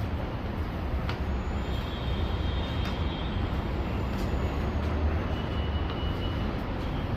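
Steady low rumble of a vehicle in motion, with faint high whines and a few light clicks.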